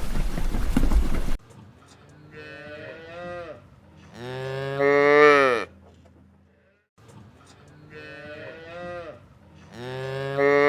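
A cow mooing: a softer low call followed by a long loud moo whose pitch falls at the end, the same pair heard twice. Before it, a steady rushing noise cuts off abruptly about a second and a half in.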